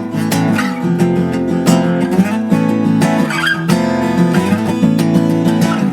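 Background music: strummed acoustic guitar chords played in a steady rhythm.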